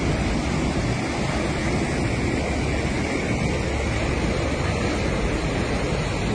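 Swollen floodwater of an overflowing river rushing steadily.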